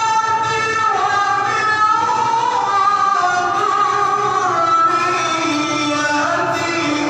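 A male qari chanting Quran recitation (tilawah) in long, held melodic notes that step and glide between pitches, amplified through a Toa loudspeaker sound system.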